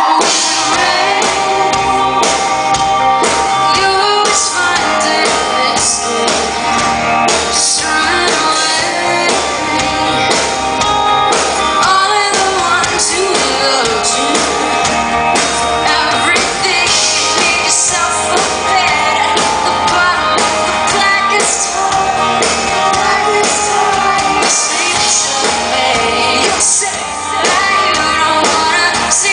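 Live rock band playing with a female lead singer, heard through the reverberation of a large concert hall. The band's low end comes in right at the start.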